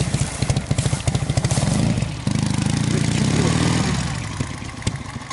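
Motorcycle engine running with rapid low firing pulses. It dips briefly about two seconds in, runs louder again, then fades over the last second.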